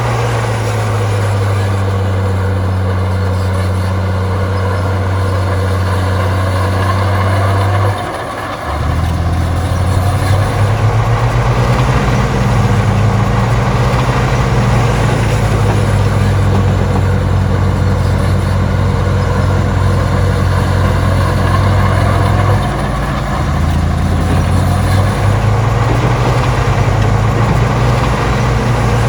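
Heavy diesel engine of earthmoving machinery running steadily. Its note drops briefly about eight seconds in, then comes back louder, with another short dip about two-thirds of the way through.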